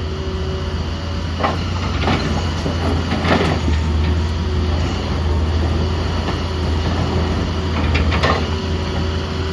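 Large excavator's diesel engine running steadily under load, with a thin hydraulic whine over it. A few sharp knocks and scrapes of rock against the bucket come through, the loudest about three and a half seconds in.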